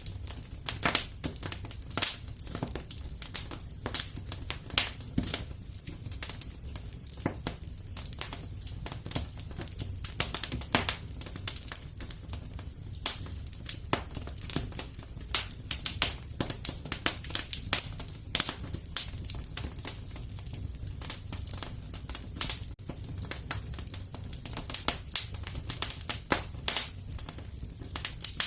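Wood fire crackling in a fireplace: a steady low rumble of flames with many irregular sharp pops and snaps, some louder than others.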